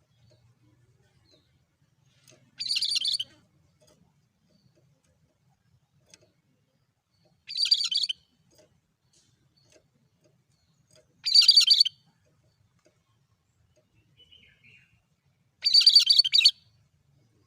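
A cucak kerinci calling: four short, high-pitched, buzzy calls of under a second each, repeated at an even spacing of about four seconds in a monotonous rhythm.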